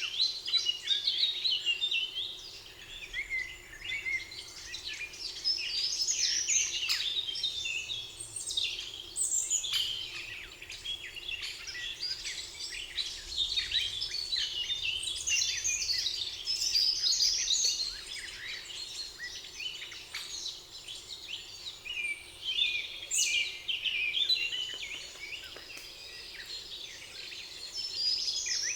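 Several songbirds singing at once in a spring forest, a dense, continuous chorus of high chirps and quick trills.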